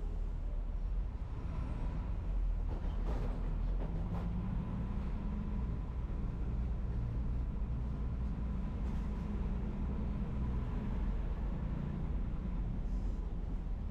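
Non-air-conditioned city bus running, a steady low engine and road rumble, with two brief knocks about three and four seconds in.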